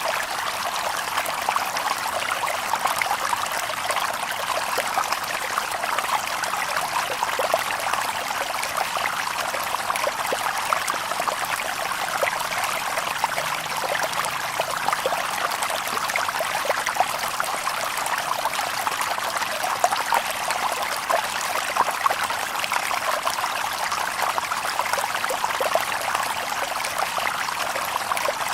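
Water babbling over stones in a shallow stream: a steady rush of small splashes and trickles.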